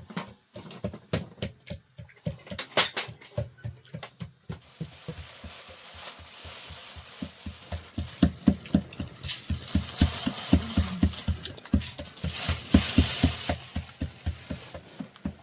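Cooking utensils clattering: a run of short, sharp knocks, coming several a second in the second half, over a hissing noise through the middle stretch.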